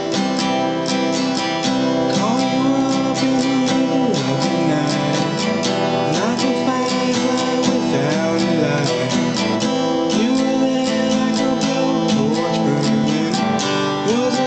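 Acoustic guitar strummed in a steady rhythm, playing chords, with a melody line gliding above it.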